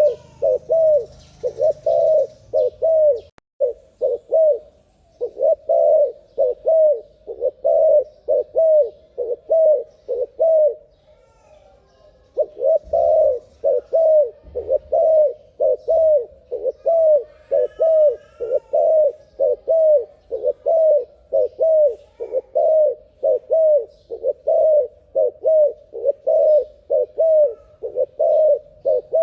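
Dove cooing in a fast, unbroken run of short, evenly repeated coos, about two to three a second, pausing briefly near the middle. A few faint higher chirps come from another bird.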